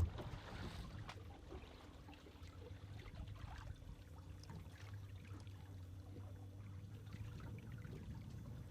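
Water trickling and sloshing on a small fishing boat over a low steady hum, with a sharp knock at the very start.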